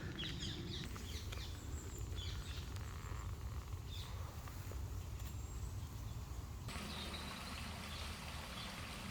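Woodland ambience: a steady low rumble with a few bird chirps in the first second. About two-thirds of the way through, the even hiss of a small stream of flowing water comes in suddenly.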